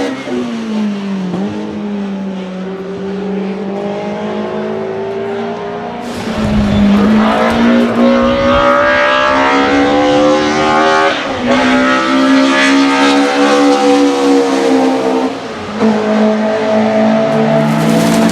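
BMW M3 E30 DTM race car's four-cylinder engine running hard on track. The revs fall at first and then hold steady. About six seconds in the engine note gets louder, and the revs climb and drop back several times.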